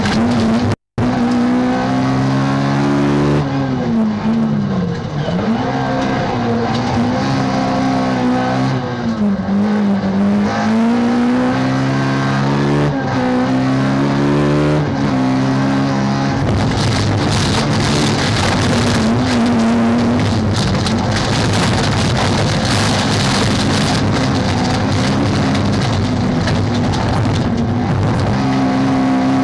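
Peugeot 206 rallycross car's engine heard from inside the cabin, revving up and dropping repeatedly through gear changes, with a brief cut-out about a second in. In the second half the engine tone sinks under a loud, even rushing noise.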